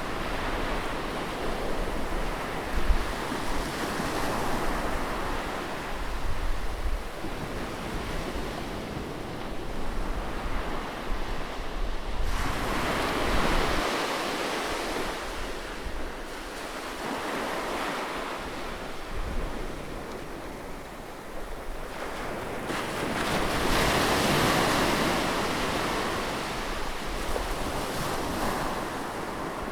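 Sea waves breaking and washing, one after another, the rushing swelling louder roughly every ten seconds and then ebbing.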